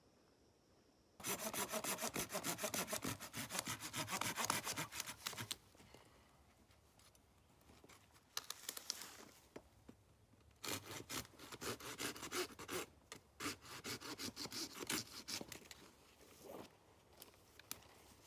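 Hand saw cutting wood in quick back-and-forth strokes. It runs in two bouts of several seconds each, with a pause of quieter scraping between them.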